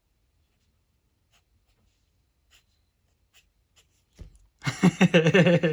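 Faint, scattered short scratches of a Micron fineliner pen drawing on paper. A man's voice breaks in near the end and is the loudest sound.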